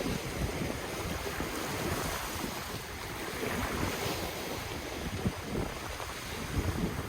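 Ocean waves washing on the shore in a steady hiss of surf, with wind buffeting the microphone as a gusty low rumble.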